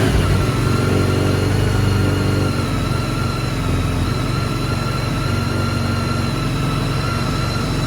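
2009 BMW K1300 GT's inline four-cylinder engine idling just after a start, a steady hum with a high whine above it, a little louder in the first couple of seconds before it settles.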